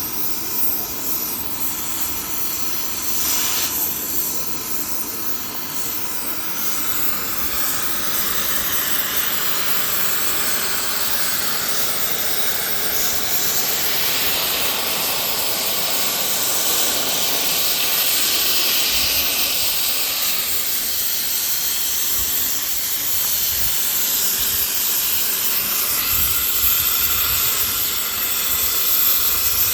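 Gas cutting torch hissing steadily while it cuts through a steel link of an excavator track chain. The hiss grows louder from about seven seconds in.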